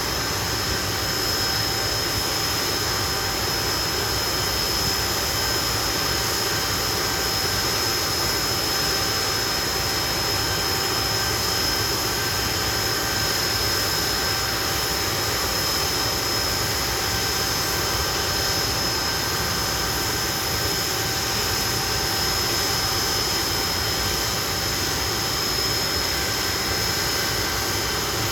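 Hawker Siddeley Nimrod's Rolls-Royce Spey turbofan engines running steadily, a constant rushing noise with a high, steady whine that neither rises nor falls.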